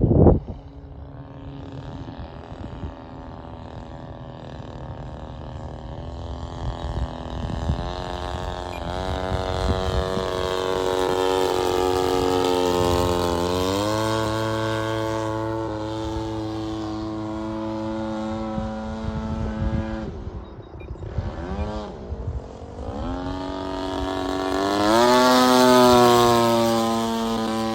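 Seagull Models Shock Cub RC model airplane's motor and propeller in flight, its pitch sliding up and down as the plane passes, loudest near the end. A sharp knock at the very start.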